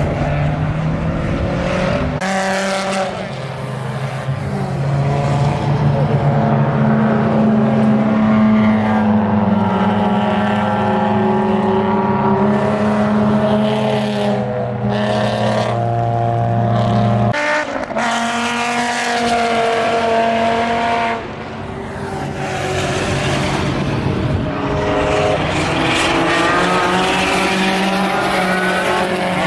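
Race cars running on a road course, their engines rising in pitch as they accelerate, several cars in turn.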